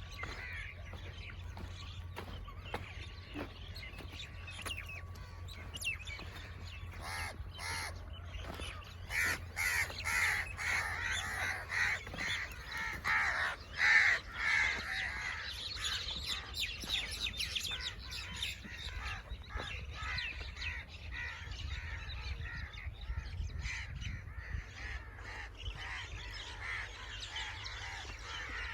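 Crows cawing over and over, with smaller birds chirping. The calls start about a quarter of the way in and are loudest around the middle.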